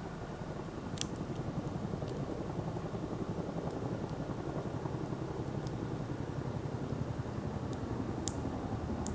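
Wood campfire burning with a steady low rustle and a few sharp pops from the wood, the strongest about a second in and near the end.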